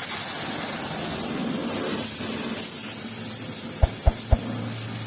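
Steady hiss of a car wash spray nozzle, with three quick low knocks a little under four seconds in.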